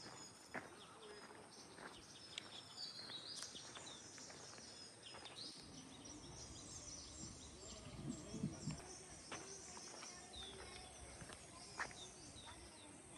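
Quiet outdoor ambience with faint, scattered bird chirps and a few small clicks, and a brief low sound about eight seconds in.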